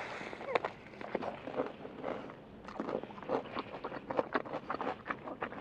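A bite into crispy breaded fried chicken, then close-miked chewing full of short, sharp crunches of the fried crust.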